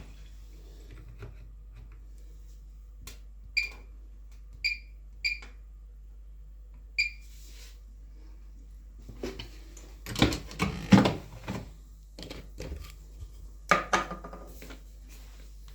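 Washing machine control panel being set: four button presses in the first half, each a click with a short high beep. Louder handling clatter follows about ten seconds in and again near the end.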